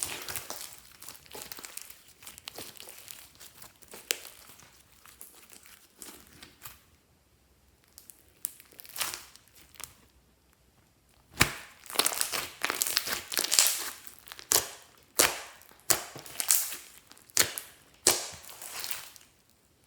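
Glossy slime being pressed and kneaded by hand. Soft crackling for the first few seconds, a quiet stretch, then a run of sharp crackles and pops about once a second.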